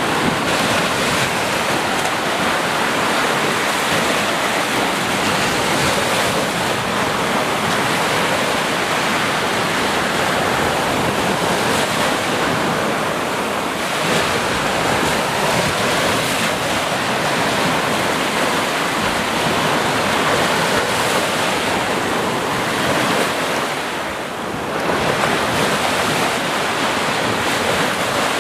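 Ocean surf: waves breaking and washing in a continuous wash, with a brief lull about three-quarters of the way through before the next wave swells in.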